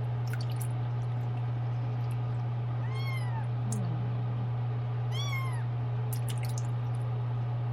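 Tiny kitten meowing twice, about three seconds in and again about five seconds in, each call rising then falling in pitch: protesting its flea bath. A steady low hum runs underneath, with a few short clicks.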